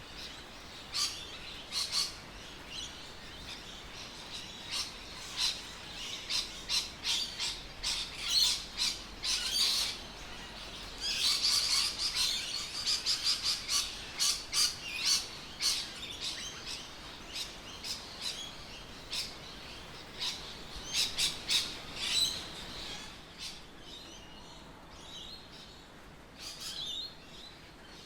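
Birds chirping: many short, high chirps in quick succession, busiest in the middle and thinning out near the end, over a faint steady background hiss.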